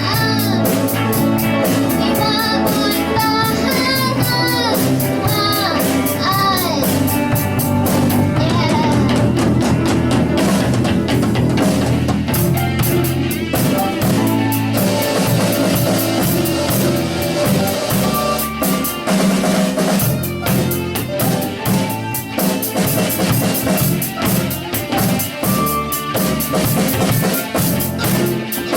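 Student rock band playing live with drum kit, electric guitar and bass. A sung vocal line runs over the band for the first several seconds, then the band carries on instrumentally with a steady drum beat.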